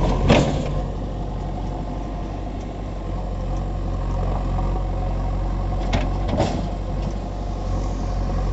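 JCB 3DX backhoe loader's diesel engine running steadily at low throttle, with a brief sharp knock just after the start and two more about six seconds in.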